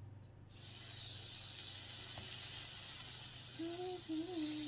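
Food laid on a hot grill pan starts to sizzle suddenly about half a second in, then keeps up a steady sizzle.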